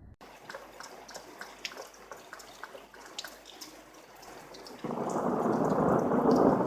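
Thunderstorm rain: a steady hiss scattered with the ticks of single drops. About five seconds in, a much louder rushing noise sets in, as of a heavier downpour or rolling thunder.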